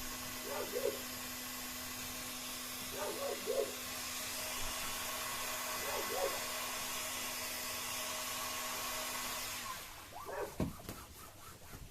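Heat gun blowing steadily, cut off suddenly a little under ten seconds in. Three short whines sound over it, and a few clicks and knocks follow once it stops.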